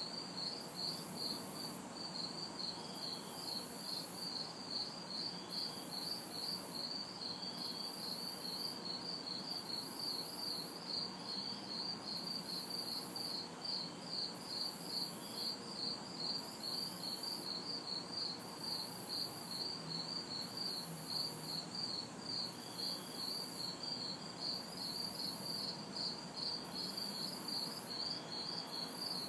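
Night chorus of crickets and cicadas: a high chirping trill pulsing a few times a second, with a shriller insect buzz switching on and off about every second, over a faint low hum of distant city traffic.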